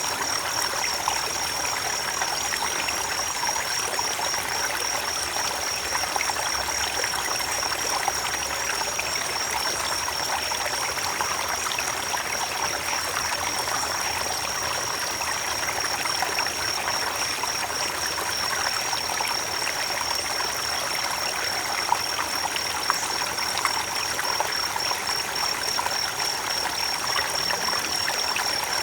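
Creek water rushing and trickling over stones, a steady splashing flow. A thin, high, faintly wavering tone runs steadily above the water.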